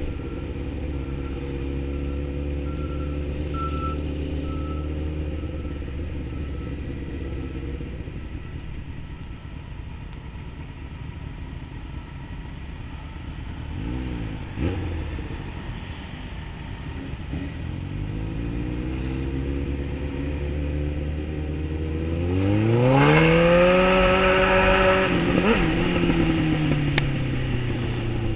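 Sport motorcycle engine running at low revs, then revving up quickly about three-quarters of the way through as the bike accelerates; the revs hold for a few seconds and ease back down near the end.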